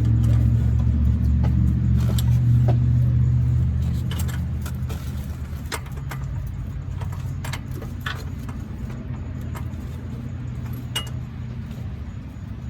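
A low engine rumble from a vehicle, louder for the first four seconds and then fading, with scattered light metallic clinks.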